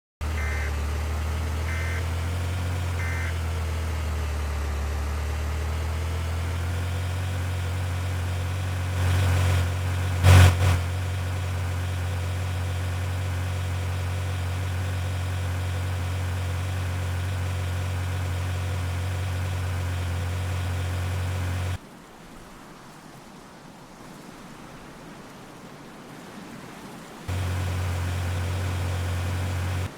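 Vehicle engine and road noise running steadily, heard from inside the vehicle. Three short high beeps sound in the first few seconds, and a brief louder burst comes about ten seconds in. The sound drops out to a quieter hiss for several seconds before the hum returns.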